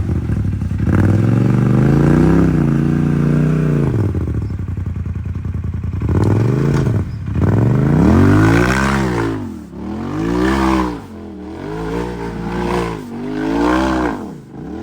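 Side-by-side UTV engine revving hard in repeated bursts under load while crawling up a rock climb, the revs rising and falling about once a second in the second half.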